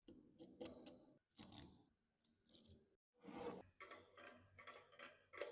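Metal parts of a rusty antique key-cutting machine clicking and scraping against each other as they are worked by hand, in about five short bursts with brief pauses.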